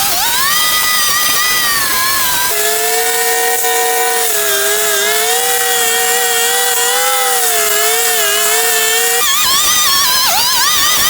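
Small petrol engine of a gas-powered cutting tool running hard, its pitch wavering with the load. It drops to a lower, wobbling note about two and a half seconds in and rises again near the end.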